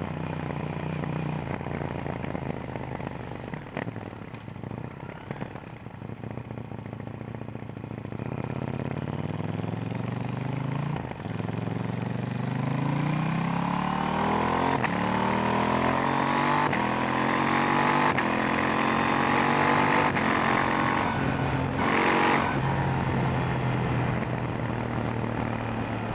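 KTM 890 Duke R's 889 cc parallel-twin engine with its stock silencer, running steadily at low revs under way, then accelerating hard from about nine seconds in. The pitch climbs and drops back at each of several upshifts before settling into a steady cruise near the end.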